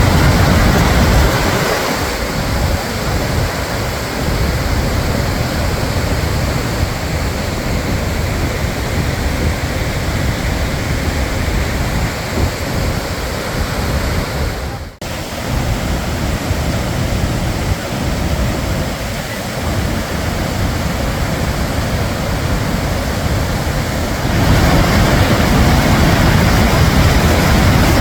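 Gullfoss waterfall's steady rush of falling water, a dense roar that changes level and depth a few times, with a brief sudden drop near the middle.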